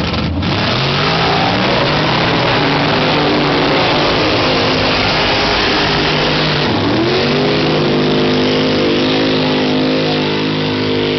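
Mud-bogging truck's engine revving hard, its pitch climbing about seven seconds in and then held high, over a loud rushing noise.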